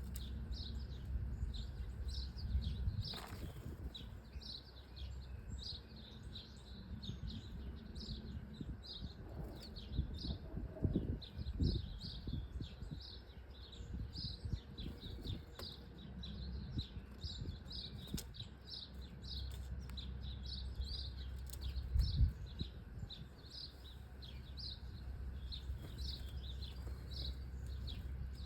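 A flock of small songbirds chirping, short high chirps coming several a second throughout, over a low steady rumble. A few dull low thumps, the loudest about 22 seconds in.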